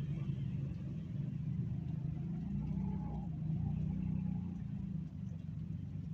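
A vehicle engine running as traffic passes on a rain-flooded road, against the noise of heavy rain. It grows louder about three to four seconds in, then dips briefly.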